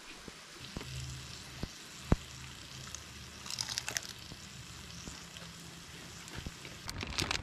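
Beef frying and sizzling in a pan, with a single sharp click about two seconds in and crinkly rustling around the middle and again near the end.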